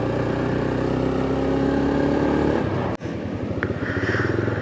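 Motorcycle engine running under way, its note climbing slightly over the first couple of seconds. About three seconds in the sound cuts out for an instant, then the engine runs on with a rougher, pulsing note, with wind noise on the microphone.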